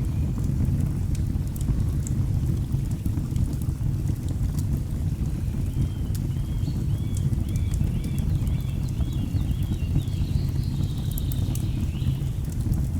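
Mixed fireplace and nature ambience: a steady low rush of falling water under sharp crackles and pops of burning logs. About halfway through a bird sings a run of quick repeated high notes, rising into a louder call near the end.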